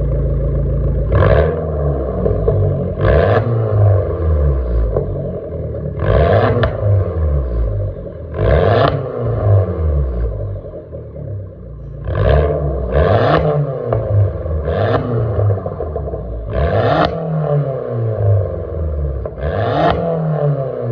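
Fiat 500 Abarth's 1.4-litre turbocharged four-cylinder engine blipped repeatedly through its exhaust, the pitch rising and falling with each rev, about every two seconds. Each blip carries a short noisy burst on top of the engine's low drone.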